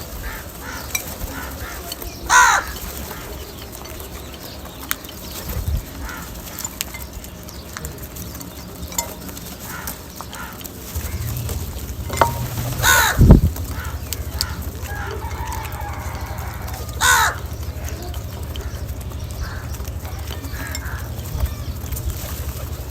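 Crows cawing: three loud, short, harsh calls about two, thirteen and seventeen seconds in, among fainter scattered calls. A steady low hum sets in about eleven seconds in.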